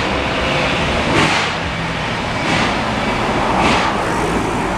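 A passenger train behind the Reading 2102 steam locomotive rolling slowly past: a steady rumble, with a short hissing burst about every second and a quarter, three times.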